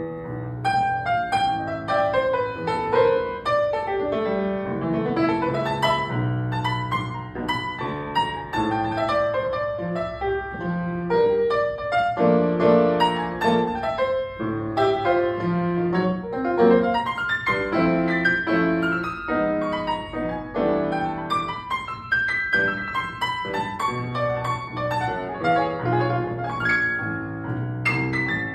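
Piano playing chords and a melody line, with no voice.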